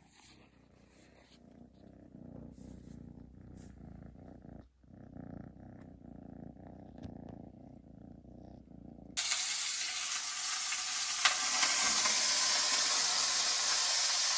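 A small kitten purring steadily and softly; about nine seconds in it cuts abruptly to the louder, steady sizzle of food frying in a pan.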